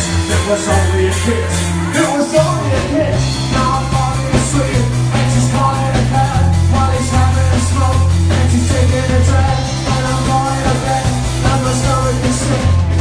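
Rock band playing live: a singer over electric guitars, a steady bass line and drums.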